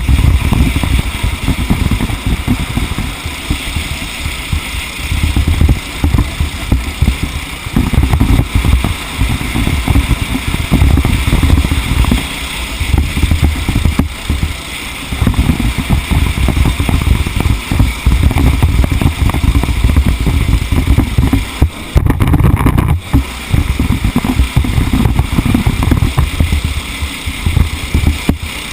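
A TAG-class racing kart's two-stroke engine running hard on track, heard through heavy wind buffeting on the microphone, with a brief easing about three-quarters of the way through.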